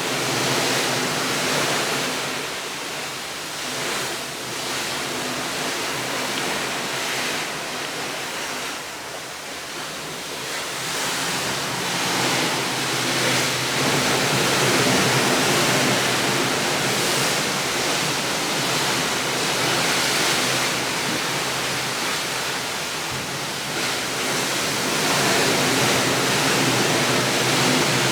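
Continuous rushing water, a steady hiss that swells and eases every few seconds and grows louder after about twelve seconds.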